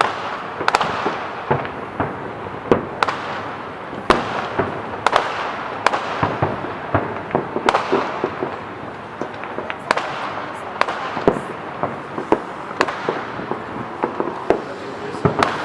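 Fireworks going off: many irregular sharp bangs and pops, some close together, over a continuous crackle and rumble of distant bursts.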